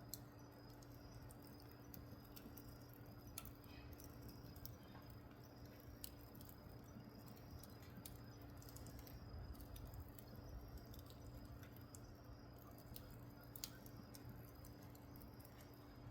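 Faint crackling of a wood fire lit to start charcoal: a few sparse, sharp pops, the clearest about three, six and thirteen and a half seconds in, over a steady low hum.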